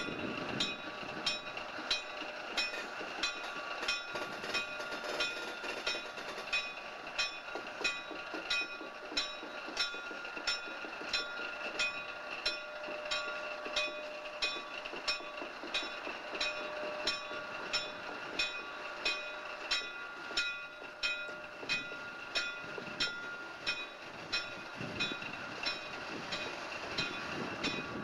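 Locomotive Engine 4040 and its coal hopper cars rolling along the track: an even click-clack about one and a half times a second over a steady running noise and hum.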